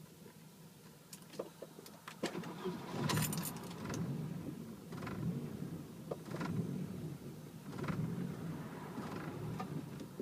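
Repeated attempts to start a Volvo 760 that will not start. The key rattles on its ring while the car makes short low-pitched bursts of sound, several times at irregular intervals, but the engine never catches.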